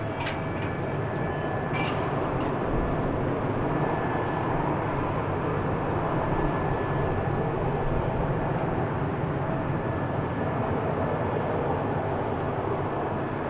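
Jet airliner engines running: a steady rush of noise with faint, steady whining tones in it, and two short clicks in the first two seconds.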